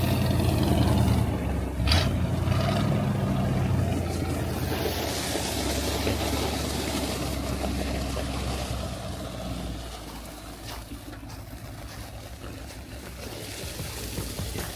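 A vehicle engine running steadily with a low hum, with a sharp knock about two seconds in; the engine sound drops away about ten seconds in, leaving a quieter noisy background.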